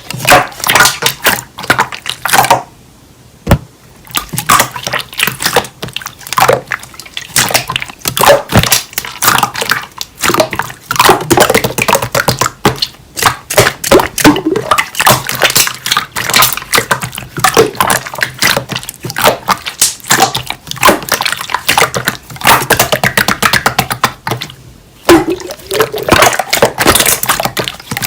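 Hands squishing, kneading and poking slime: rapid sticky clicks and wet pops, with a short pause twice.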